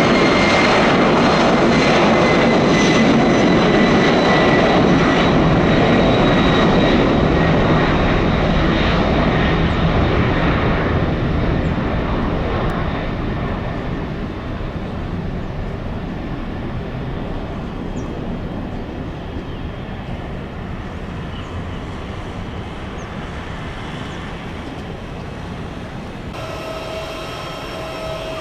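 Four-engine Boeing 747 jet passing and moving away: loud engine noise with a high whine that glides slowly down in pitch, fading gradually from about ten seconds in. Near the end a steady hum of several tones joins.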